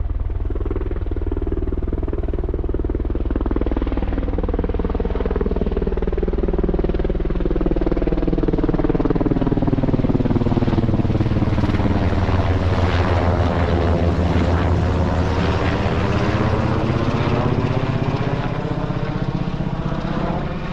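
Helicopter flying low past overhead, its rotor thudding steadily, loudest around the middle of the pass, with its tone sweeping down and back up as it goes by.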